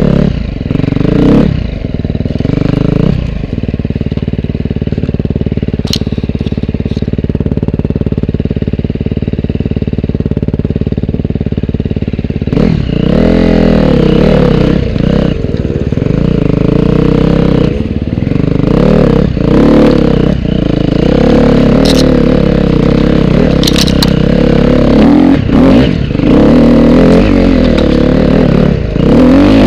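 Off-road dirt bike engine running under load. Its pitch holds fairly steady for the first dozen seconds, then rises and falls repeatedly as the throttle is worked, with a few sharp clacks.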